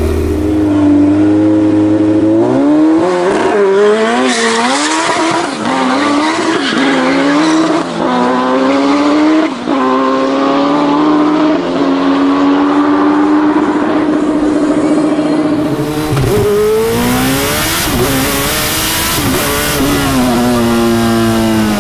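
Turbocharged Suzuki Hayabusa inline-four engine in a three-wheeled Reliant Bond Bug, revving hard and pulling up through several gear changes. It holds a steady high-revving note for several seconds, then drops away and climbs again, falling off near the end.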